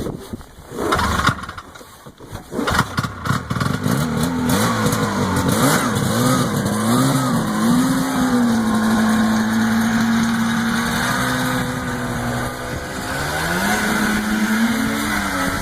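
Ski-Doo Blizzard 5500 MX snowmobile's twin-carb two-stroke engine being started: a few seconds of uneven sputtering before it catches about three seconds in, then running with its speed wavering up and down before settling to a steady idle. Near the end the engine dips and is blipped up briefly.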